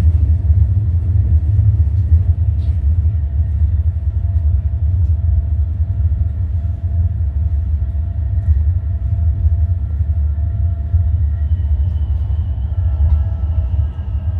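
Roslagsbanan narrow-gauge electric train running close by: a loud, steady low rumble with a faint, steady motor whine above it.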